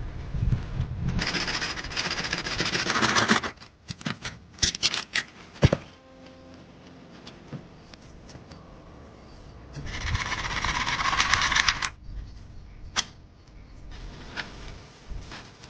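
Rustling, scraping handling noise in two bursts, with a run of sharp clicks or knocks between them.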